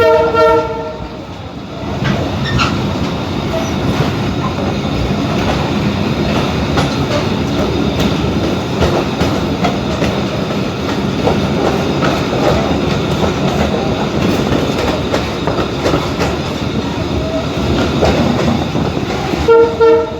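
Moving passenger train rattling and clacking over the rails, with its horn sounding briefly at the start and again just before the end.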